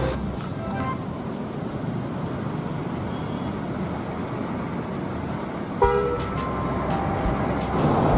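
A vehicle horn toots briefly at the start and again more loudly about six seconds in, over a steady rumble of vehicle noise.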